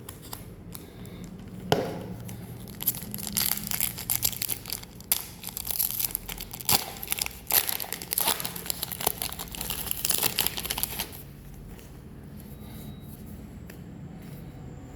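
Pokémon card booster pack wrapper being torn open and crinkled by hand. It starts with a sharp rip about two seconds in, and the dense crackling goes on until it stops about eleven seconds in.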